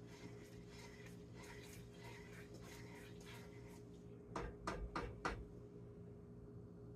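Quiet kitchen work at a pot of sugar syrup: faint light scraping over a steady low hum, then four quick sharp knocks about four and a half to five and a half seconds in.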